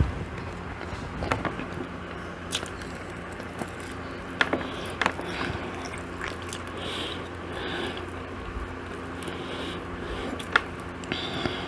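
Eating sounds: chewing and mouth noises, with a few sharp clicks and smacks scattered through, the sharpest near the end, over a steady low hum.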